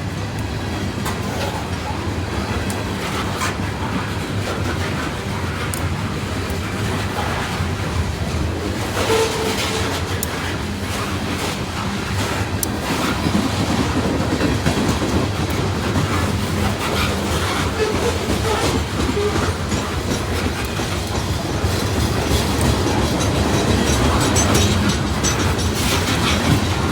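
Freight train cars rolling past, a steady rumble with the clatter of wheels over the rail joints and a few short wheel squeals.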